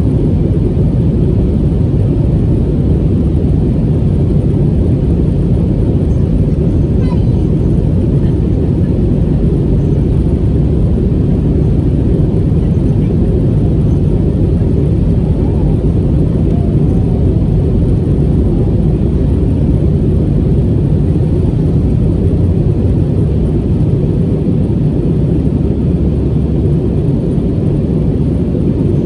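Steady low rumble of an Airbus A320neo's cabin in flight after takeoff: engine and airflow noise from its Pratt & Whitney PW1100G geared turbofans heard from inside the passenger cabin.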